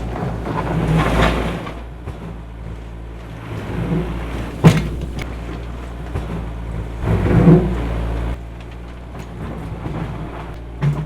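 Earthmoving machinery's diesel engine running steadily, with louder rumbling surges about a second in and again near seven seconds, and a sharp knock near the middle.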